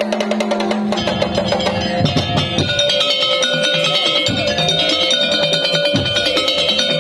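Madurese tong-tong (daul) ensemble playing: rapid wooden percussion and drums under a held melodic line, with a few deep drum hits.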